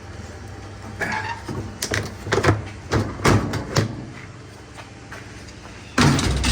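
Tools and metal parts being handled inside a top-load washer's drum: irregular scraping, clicking and knocking, with a louder scrape near the end.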